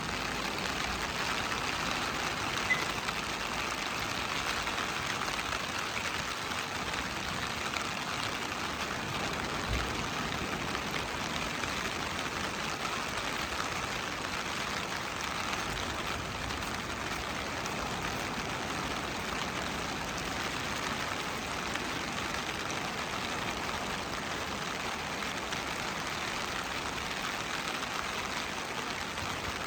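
Steady rushing wash of ocean surf at a beach, an even hiss with no distinct wave crashes standing out, and one faint low knock about ten seconds in.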